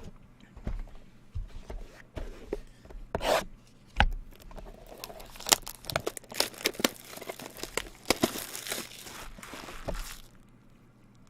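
Trading-card pack wrappers being torn open and the cards handled, with irregular tearing, crinkling and sharp clicks.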